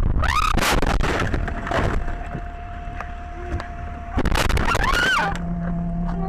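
A road crash: a loud impact with crunching and a high pitched squeal under a second in, then a second loud burst with another rising-and-falling squeal about four seconds in.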